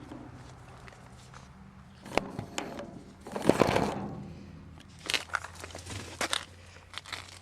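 Paintball marker being fired repeatedly with paint: a string of sharp pops and clicks, with one longer, louder hissing burst about three and a half seconds in. The marker has an intermittent misfire.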